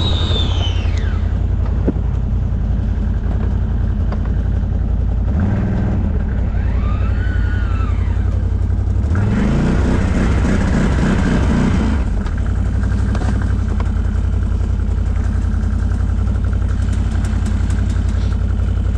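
ATV engine running steadily, with revs rising and falling a few times; from about nine seconds in the engine climbs under throttle for a few seconds before settling back.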